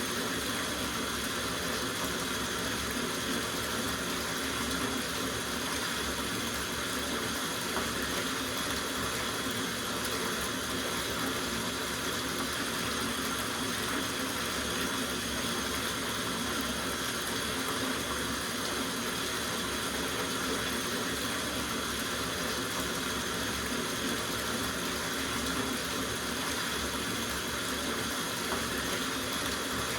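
Water running steadily from a tap into a soaking bathtub, a constant rushing and splashing.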